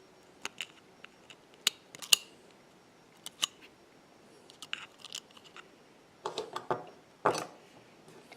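Scattered small clicks and taps of metal tools and small parts on an iPhone 6 being taken apart, with a short run of clatter about six seconds in and another sharp tap soon after.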